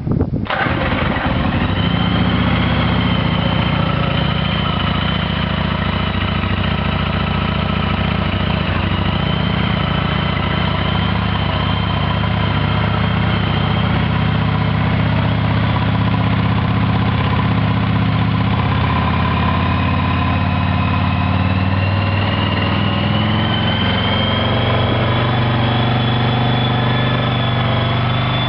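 1996 Yamaha Virago XV750's air-cooled V-twin catching on a cold start and settling straight into a steady idle.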